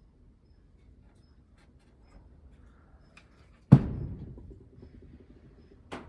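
A hinged wooden storage door bangs shut about two-thirds of the way in: one sharp, loud thud with a booming low ring that fades over about a second. A lighter knock follows near the end.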